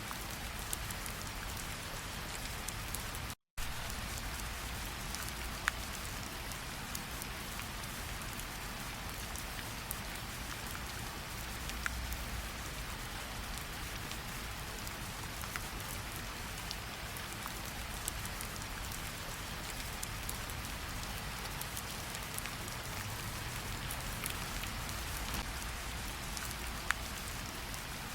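Steady rainfall with individual drops ticking close by. The sound cuts out to silence for a split second about three and a half seconds in.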